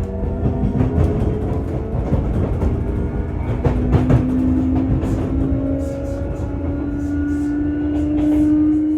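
Sotetsu 8000 series electric train running, heard inside motor car MoHa 8231: the traction motors' whine, from the train's renewed drive equipment, rises slowly in pitch as the train gains speed. Under it are a running rumble and scattered clicks from the wheels and rails.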